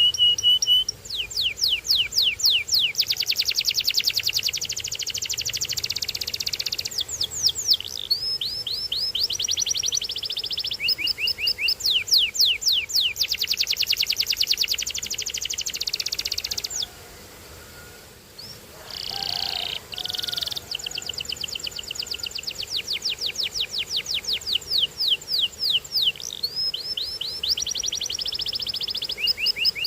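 Canary singing a long song of fast trilled runs, each built from quickly repeated sweeping notes. The song breaks off briefly past the halfway point, then resumes with more rapid trills.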